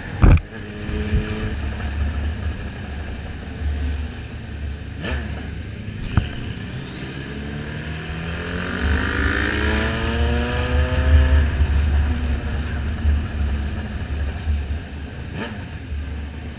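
Motorcycle engine running under way, its pitch rising through a pull from about seven seconds in and easing off again, over a heavy low rumble. A sharp knock just after the start is the loudest moment, with a few lighter clicks later.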